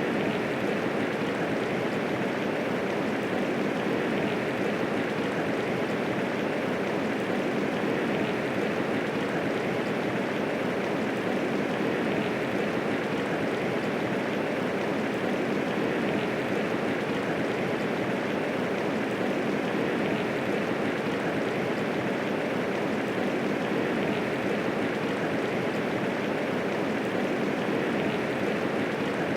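Steady medium rainfall, a dense even patter of raindrops with no thunder.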